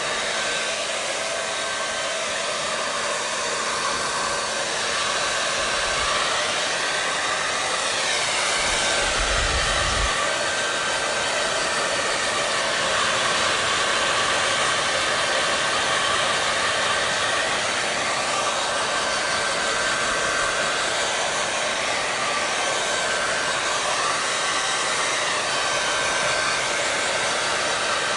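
Hair dryer running steadily: an even rush of blown air over a constant motor hum and whine. The tone swells and dips gently a few times.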